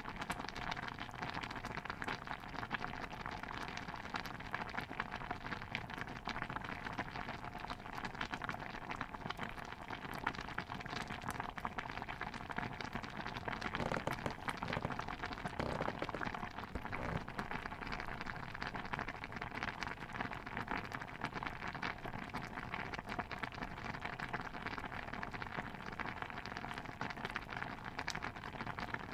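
Steady, dense patter of many small pops and drips, like bubbling liquid or light rain, with a few louder clicks around the middle.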